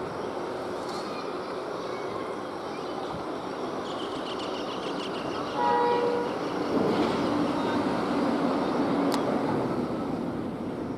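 Train running over the track, a steady rumble and clatter of wheels on rail, with a short blast of the train horn about halfway through.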